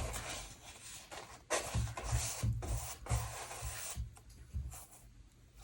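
Paper rubbing and rustling in several short bursts as torn gel-print pieces are pressed and smoothed down onto a collage canvas, quieter near the end.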